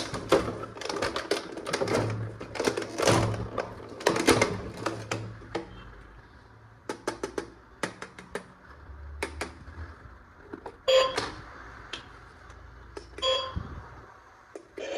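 Plastic toy parts being handled: a quick run of clicks and clatters for the first several seconds, then scattered single clicks, with two short ringing clicks near the end.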